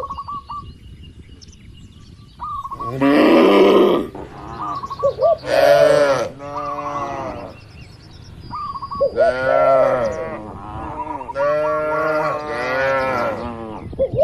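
Cattle mooing four times. The first call, about three seconds in, is a rough bellow; the later ones are longer pitched moos.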